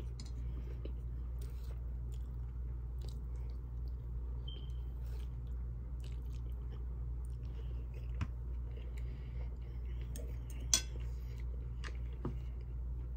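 A person chewing a mouthful of beef and broccoli, with small wet mouth sounds. A few sharp clicks of a plastic fork on the dish stand out, the loudest about 11 seconds in, over a steady low hum.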